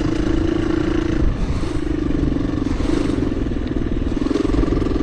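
KTM 350 EXC-F's single-cylinder four-stroke dirt bike engine running under way on a trail ride, with a dense low rumble beneath. The engine note dips briefly a little over a second in and again near three seconds.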